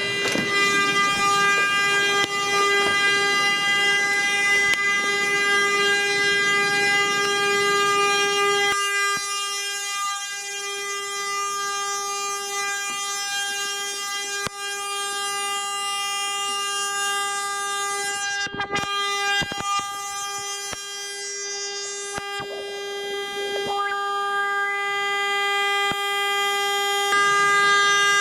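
Car horn stuck on, sounding continuously in one steady, unbroken tone. A background hiss drops away about nine seconds in, and a few sharp clicks come near the middle.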